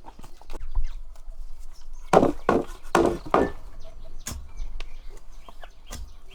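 A series of sharp knocks and taps, with a run of four heavier chopping strokes in the middle.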